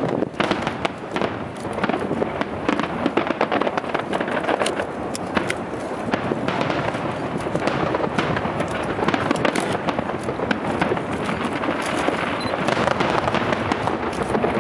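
Aerial fireworks display: a dense, unbroken run of overlapping shell bursts, pops and crackling.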